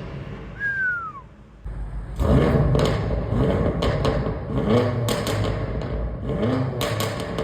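BMW F90 M5's stock twin-turbo V8 revved in a series of about five quick blips, each rise in pitch followed by sharp crackles from the exhaust.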